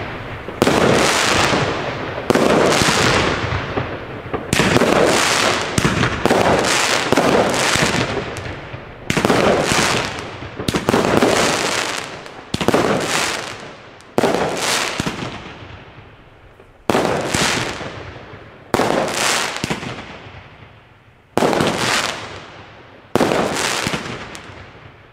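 Consumer firework battery firing aerial shots one after another, about every two seconds. Each shot is a sharp bang followed by a crackling tail that fades before the next shot.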